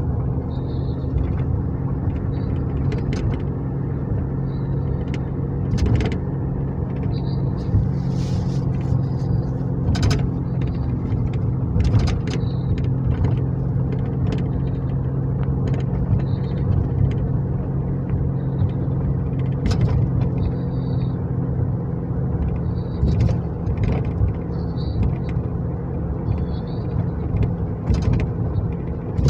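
Steady engine and road drone heard from inside a moving police car, with scattered clicks and faint short high chirps every few seconds.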